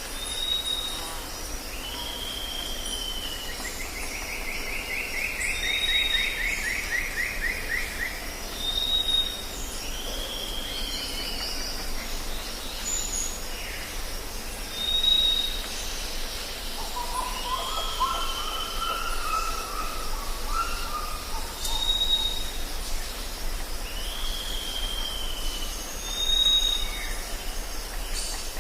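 Tropical forest ambience: several birds calling over a steady high insect drone. One bird gives a short high whistle about every three seconds, others answer with arched calls, and a descending trill and a lower call come in along the way.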